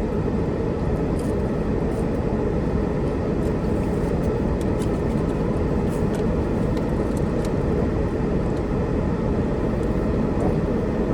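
Steady low rumble inside a car cabin, with a few faint clicks scattered through.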